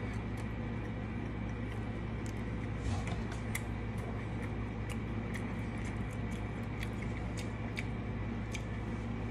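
A person chewing a fried chicken sandwich with the mouth closed: scattered small, irregular mouth clicks over a steady low hum.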